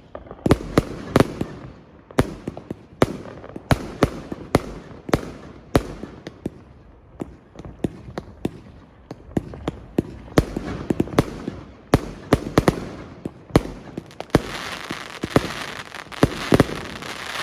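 New Year's Eve fireworks going off: many sharp bangs and cracks at irregular intervals. A denser hissing crackle builds about fourteen seconds in.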